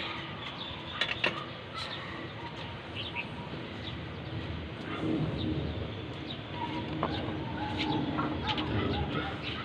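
Birds calling, with scattered sharp clicks and knocks.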